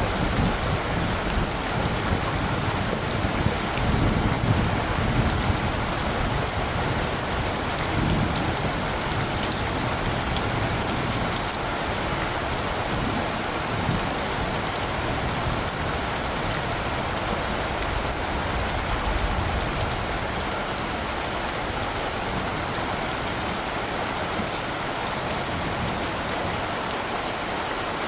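Steady rain falling, with a low rumble of distant thunder that swells in the first few seconds and fades away over the second half.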